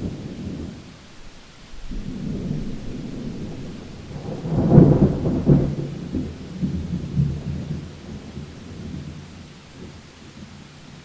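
Thunderstorm: rolling thunder over steady rain, building to a loud crackling peak about halfway through, then rumbling away.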